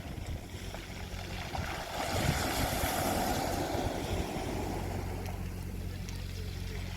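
Sea waves washing onto a beach: one wave swells and breaks about two seconds in, then hisses away. A low, steady hum runs underneath.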